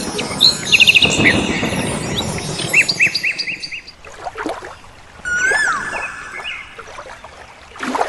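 Birds chirping: quick runs of short repeated chirps over a steady hiss in the first half, then a few longer whistled notes that rise and fall.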